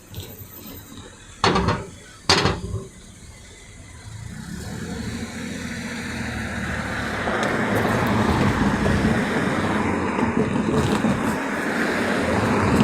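Two sharp knocks, then a road vehicle's engine and tyre noise building up as it approaches and runs close by, loudest near the end.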